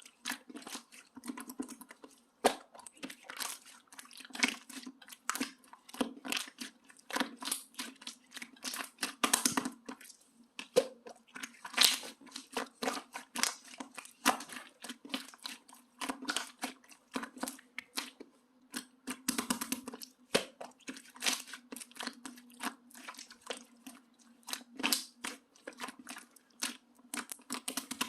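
Translucent orange slime being stretched, squeezed and poked by hand, making irregular sticky clicks, pops and crackles.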